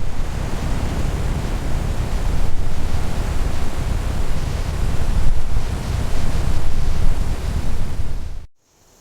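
A loud, steady rushing noise, heaviest in the deep low end and rising and falling a little, which cuts off abruptly near the end.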